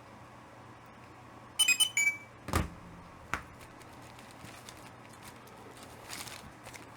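Two quick electronic beeps, the first a short warbling chirp and the second a single higher tone, followed by a thump and a small click.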